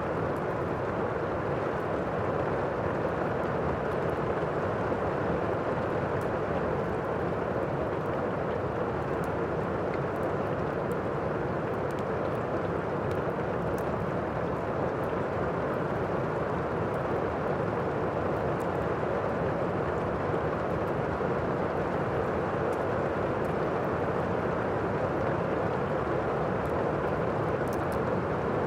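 Steady rain ambience: an even, unbroken rush of rain with faint, scattered crackles of a fireplace fire. No thunder sounds.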